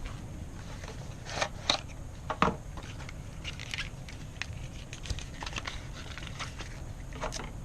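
Packaging being handled during an unboxing: scattered crinkling and short clicks, with a few louder knocks about one and a half to two and a half seconds in.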